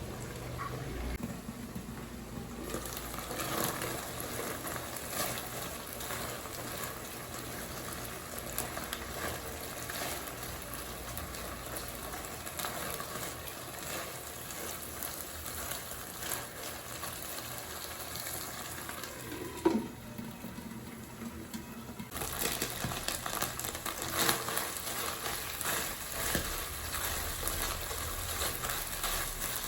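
Food sizzling and crackling in a hot pan, growing louder and brighter about three-quarters of the way through, with a short squeak a little before that.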